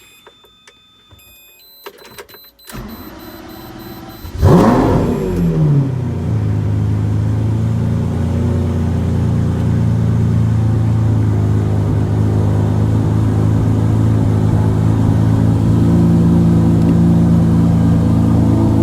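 Lamborghini Murciélago V12 cold start: after a couple of seconds of quiet with a few brief electronic beeps, the starter cranks briefly and about four seconds in the engine catches with a loud flare of revs that rises and falls, then settles into a steady fast cold idle.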